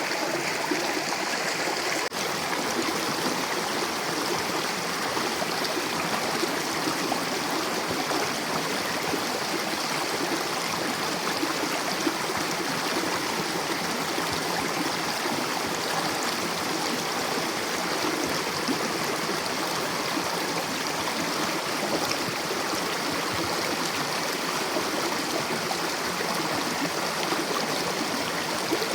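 Mountain river rushing steadily, an even unbroken water noise.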